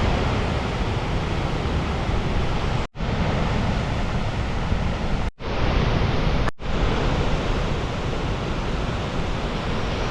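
Steady rushing noise, heaviest in the low end, broken three times by brief dropouts.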